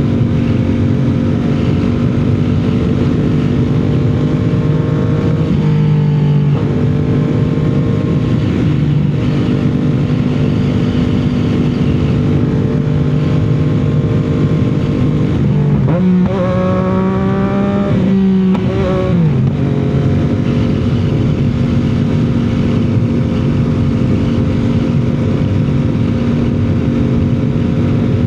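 CFMOTO 675's three-cylinder engine and exhaust at a steady highway cruise. The note dips briefly about six seconds in. Around two-thirds of the way through, the pitch climbs, breaks off and settles back to the cruising note.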